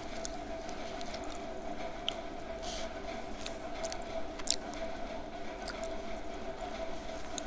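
Close-miked chewing of homemade slate pencil paste pieces in the mouth: soft crunching with a few scattered sharp crackles, over a steady electrical hum.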